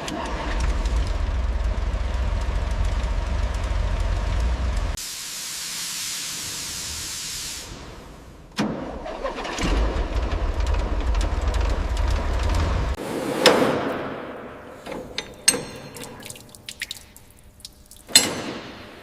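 A motor runs with a low rumble for about five seconds, then a hiss like escaping air, then the rumble again for about three seconds. After that come a series of sharp clicks and knocks, the loudest shortly after the rumble stops and another near the end.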